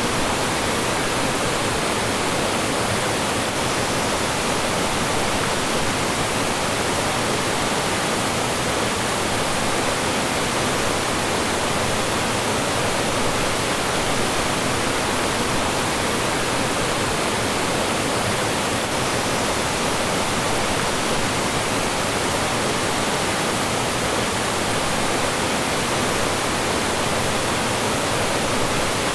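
Mountain stream flowing and falling over rocks in a steady, unbroken rush of water.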